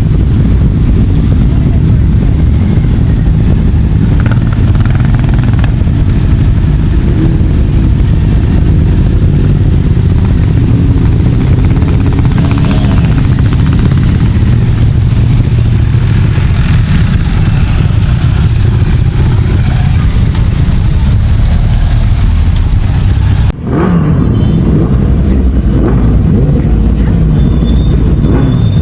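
A stream of motorcycles riding past, engines running and revving, with a sudden break about 23 seconds in before the engine noise carries on.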